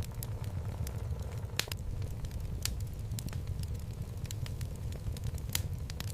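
Wood logs burning in a home fireplace: a steady low rumble of flame with irregular sharp crackles and pops, a few louder snaps standing out.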